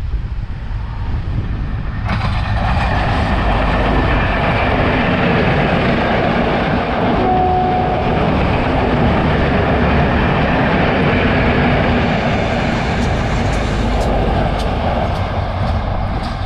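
Sri Lanka Railways S13 diesel power-set express train passing close by at speed: a loud, steady rumble of engines and wheels on the rails that builds over the first two seconds. Near the end comes a run of sharp clicks as the wheels cross the rail joints.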